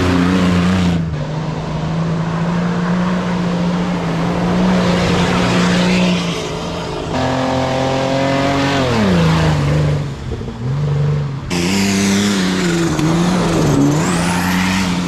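Off-road 4WD trucks' engines revving hard under load on a competition lap. The engine note falls steeply about eight or nine seconds in, and the sound changes abruptly twice.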